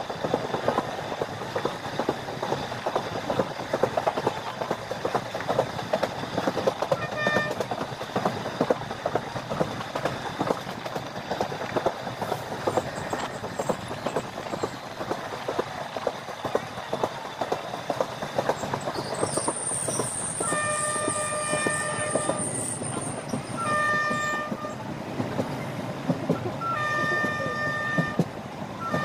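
Passenger train running on the track, heard from the open coach door: steady rattle and clickety-clack of the wheels over rail joints. About two-thirds of the way through, a horn sounds three blasts, the first about two seconds long, with a high whine over the first blast.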